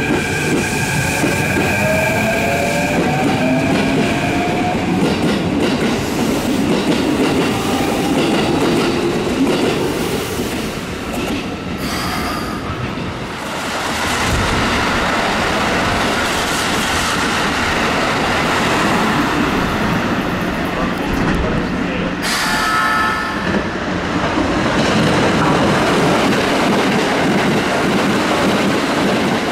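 Keikyu electric train running through the station, with continuous wheel and running noise and some clatter. A motor whine climbs in pitch during the first few seconds, and two brief high tones sound about twelve and twenty-two seconds in.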